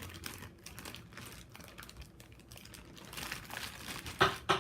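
Slime being squished and kneaded by hand inside a plastic bag, with a run of small sticky clicks and crinkles, and a few louder pops near the end.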